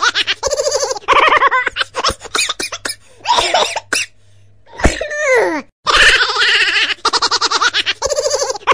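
A child's giggling laughter in rapid, pulsing bursts, broken by a short pause about four seconds in, with a quick falling glide in pitch just after it.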